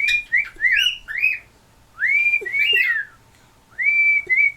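Cockatiel whistling a tune in three short phrases of clear, sliding notes with brief pauses between them.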